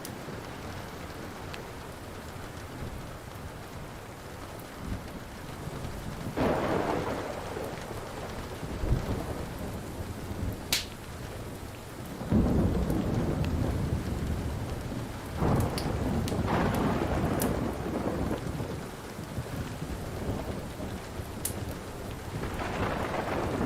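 Steady rain with thunder rolling in several times, the heaviest rumble about twelve seconds in. A few sharp pops of a wood fire crackling come through the rain.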